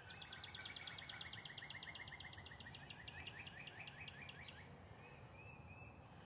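A songbird singing a long, even trill of short high notes, about eight a second, lasting about four and a half seconds, followed by a few faint chirps, over a low background rumble.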